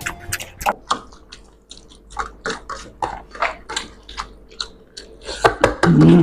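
Close-up wet chewing and mouth smacking of people eating rice and fish curry, a run of short moist clicks two to three a second. Near the end comes a brief loud pitched sound, the loudest thing here.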